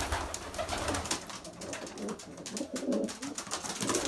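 Racing pigeons in a loft cooing low, mixed with a run of sharp clicks and rustling as birds in the nest box scuffle and fight.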